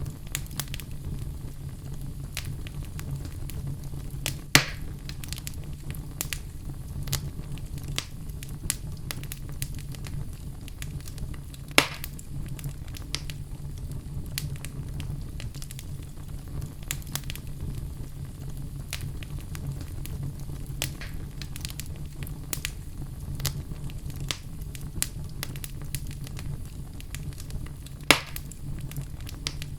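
Wood fire burning with a steady low rumble and many small crackles, with three louder pops from the burning logs.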